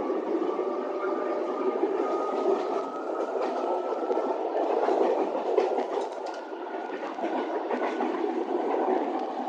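Electric suburban train running along the Sintra line, heard from inside the carriage: a steady rumble of wheels on rail with a faint whine rising slowly in pitch. A cluster of wheel clicks over the rails comes around the middle.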